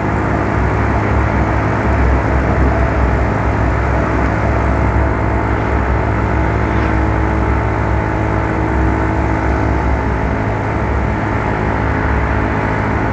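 Yamaha Mio Soul scooter under way: steady engine and road noise with a heavy low rumble of wind on the microphone.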